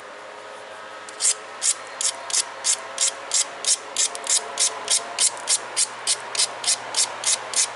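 Edge of a tiger chert bird point being ground on an abrader, in short rhythmic scraping strokes about three a second that start about a second in, dulling the edge to strengthen it before notching.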